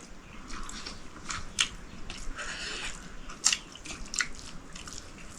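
A person eating: chewing with soft wet crackle and a few sharp clicks scattered through.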